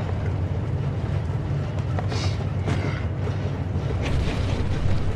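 A garbage truck's engine running with a steady low drone, heard from inside the cab, with a few faint rattles over it.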